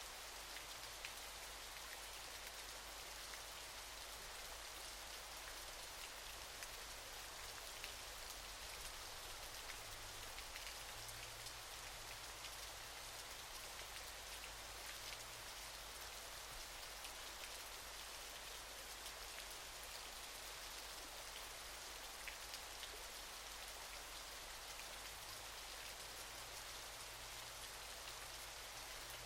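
Waterfall's falling water making a steady, even hiss, dotted with small splash and droplet ticks.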